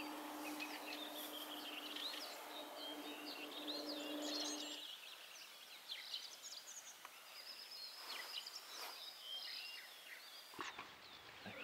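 Several small birds singing and chirping over a faint outdoor hiss, with a faint steady hum underneath that stops about five seconds in.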